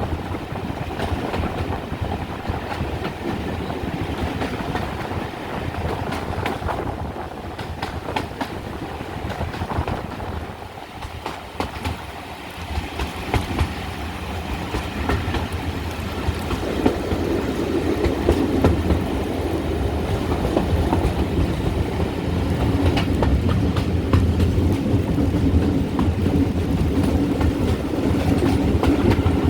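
Train hauled by GWR 4200-class 2-8-0 tank engine 4247 running along the line: a steady rumble and rattle with the clickety-clack of wheels over rail joints, growing louder about halfway through.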